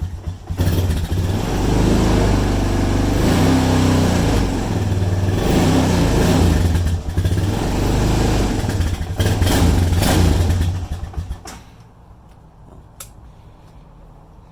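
A 2011 ATV's engine running shortly after a cold start, revved up and down several times. It falls away about eleven seconds in.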